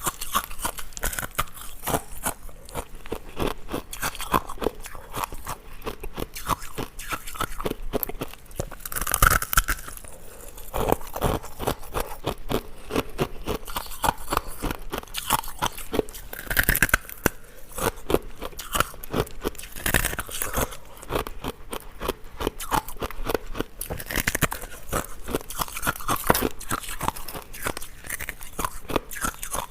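Ice cubes being bitten and chewed: a dense run of crisp cracking crunches, with a louder bite every few seconds.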